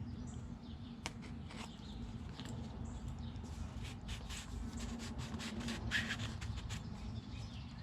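A cardboard product box being worked open by hand, its tight seal being broken: scattered scratches, clicks and rustles of card and packaging, one a little louder about six seconds in.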